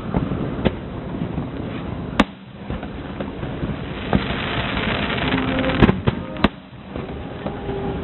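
Aerial fireworks bursting: a series of sharp bangs, loudest near the end, over a low rumble, with a burst of dense crackling in the second half.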